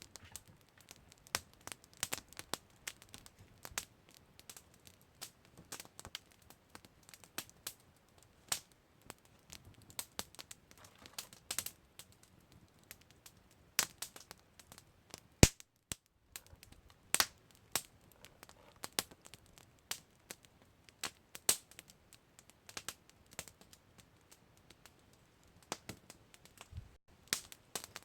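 Campfire crackling: irregular sharp pops and snaps of burning wood over a faint hiss, several of them louder cracks.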